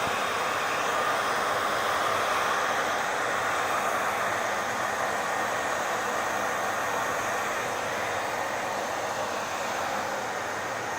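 Hair dryer running steadily, a constant airy rush of blown air with a faint motor hum underneath.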